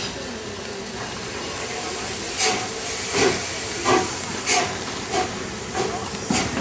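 Steam locomotive exhaust chuffing over a steady hiss: after a couple of seconds of hiss, about seven strong chuffs come at roughly one and a half a second.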